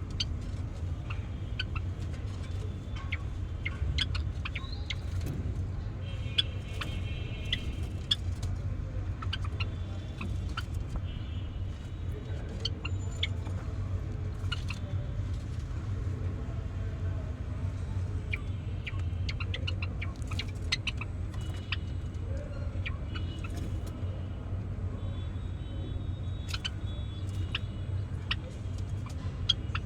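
Java sparrows giving short clicking chips and brief chattering notes, scattered irregularly and bunched in a few runs, over a steady low rumble.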